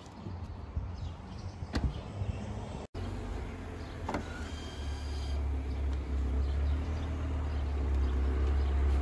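Mercedes-Benz CLA 180 engine idling, a steady low rumble that grows louder about five seconds in, with a sharp click a couple of seconds in.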